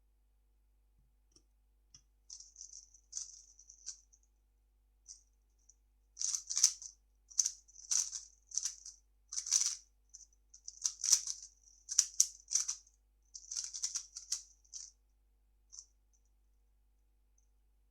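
3x3 speedcube being turned by hand: quick plastic clicking and clacking of the layers, a few scattered turns at first, then dense bursts of rapid turns with brief pauses between them.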